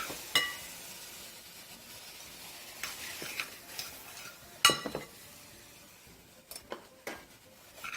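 Vegetables sautéing in a pan while being stirred: a faint steady sizzle, with the utensil striking the pan now and then in short ringing clinks, the loudest a little under five seconds in.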